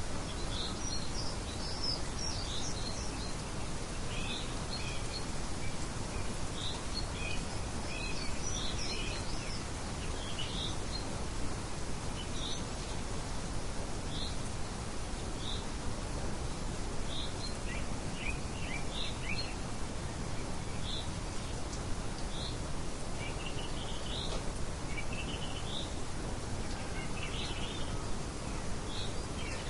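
Songbirds chirping, many short high calls scattered throughout, over a steady hiss of outdoor background noise.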